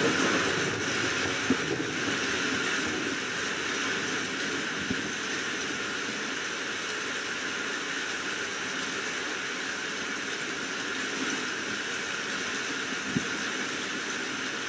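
Steady rain falling, an even hiss with no thunder rumble. A few faint sharp ticks come through, about 1.5 s, 5 s and 13 s in.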